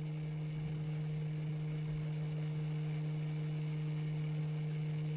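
A steady low electrical hum with a couple of fainter higher overtones, unchanging throughout.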